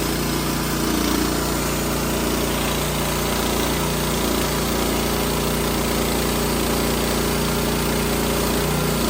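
Wood-Mizer LX55 portable sawmill's engine running steadily.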